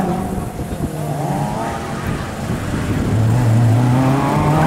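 Rally car engine running hard through a tight bend: the revs sag as the car slides around the corner, then climb steadily over the last second or so as it accelerates away.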